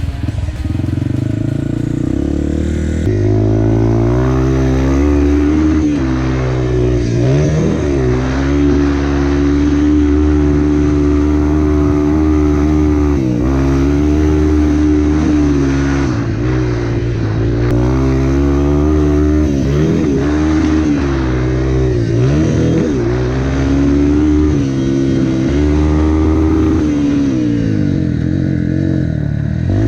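Four-stroke dirt bike engine being ridden hard, revving up and dropping off again and again as the rider works the throttle and shifts.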